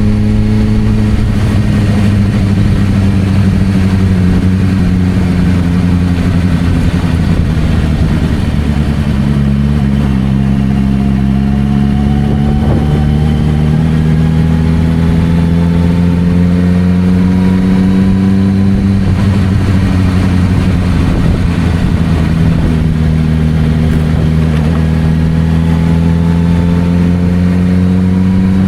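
Suzuki GSR600's inline-four engine running through a Dominator aftermarket exhaust while riding at low city speeds. The engine note drops about a second in, holds low, then climbs slowly, dips again past the middle and rises once more near the end.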